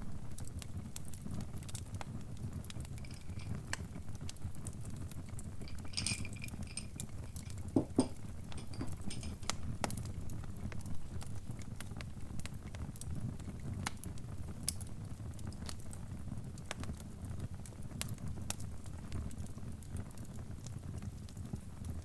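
Wood fire crackling: irregular sharp pops and snaps over a steady low rumble, with a brief high ringing sound about six seconds in and two soft knocks a couple of seconds later.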